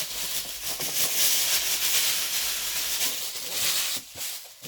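Packaging rustling and crinkling as a mailed package is handled and opened, a continuous rough noise that dies down about four seconds in.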